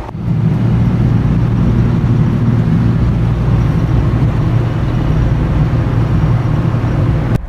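Car engine and exhaust droning at a steady pitch while cruising at constant speed, with no revving or gear changes; it starts and cuts off abruptly.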